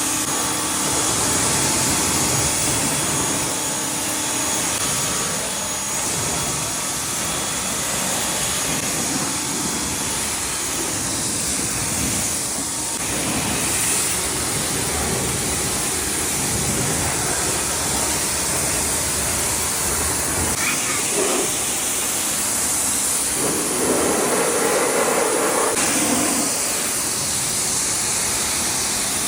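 Steady hiss of a car-wash pressure wand spraying water, a little louder for a couple of seconds near the end.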